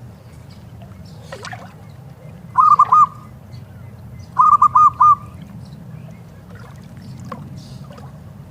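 Zebra dove (perkutut) cooing: two short phrases of quick, rapidly repeated notes, the first about two and a half seconds in and the second about a second and a half later, with fainter bird calls over a steady low rumble.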